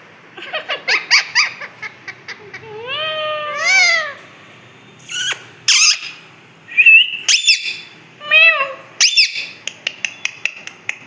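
Pet parrot chattering and squeaking: runs of quick short notes, a pair of rising-then-falling whistled calls about three to four seconds in, and sharp high squawks later on.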